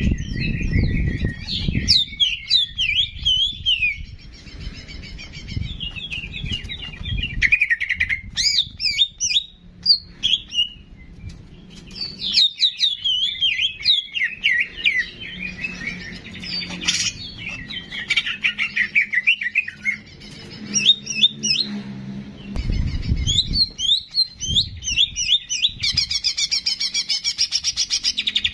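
Cucak jenggot (bulbul) songbird singing a busy run of rapid chirps and whistled phrases, ending in a fast, even trill near the end. Low rumbling patches sit under the song at times.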